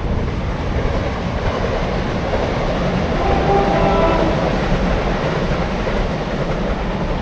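Diesel multiple-unit passenger train running past on the coast line, a steady rumble, with a brief horn sounding about three seconds in.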